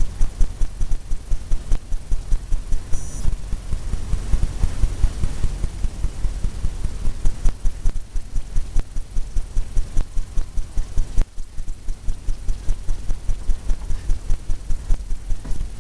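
Fan brush loaded with oil paint tapping on a stretched canvas, dull low thumps at about three a second, steady throughout, with a short break near the end.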